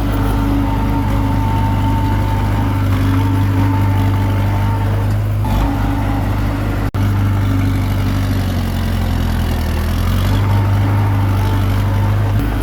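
Komatsu D21P bulldozer's diesel engine running steadily at working speed, its note shifting slightly a couple of times as the load changes. A split-second break in the sound comes about seven seconds in.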